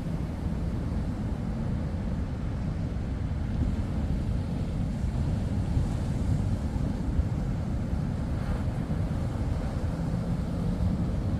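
Wind buffeting the microphone over the steady rush of surf, with a low rumble underneath throughout.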